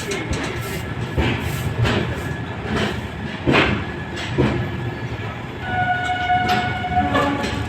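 Train wheels rumbling on the track, knocking over rail joints about once a second. About six seconds in a steady high-pitched squeal comes in and lasts nearly two seconds.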